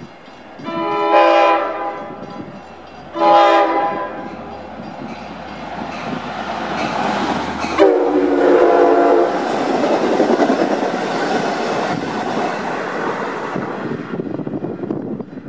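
Commuter train sounding two horn blasts on approach, then passing through the station at speed with a rush of wheel and track noise that builds and then dies away near the end. A third, shorter horn blast about eight seconds in is lower in pitch.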